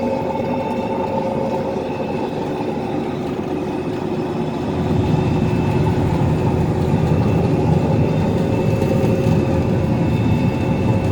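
Acros 585 combine harvester with its Cummins engine running while harvesting sunflowers, heard inside the cab: a steady machine drone with a constant whine over it. About five seconds in the low rumble grows louder and stays up.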